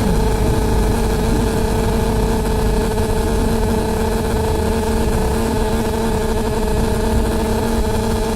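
Loud, steady droning noise on the upper deck of a double-decker bus: a constant hum of several held tones over the low rumble of the bus, going on without a break.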